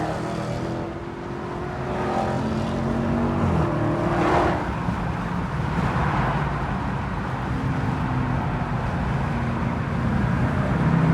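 Mopar muscle-car engines running, their steady hum shifting in pitch a few times as they are revved lightly, with a brief swell of engine noise about four seconds in.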